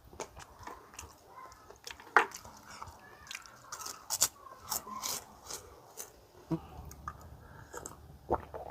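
Close-miked chewing of food with irregular sharp crunches and mouth clicks, the loudest crunch about two seconds in.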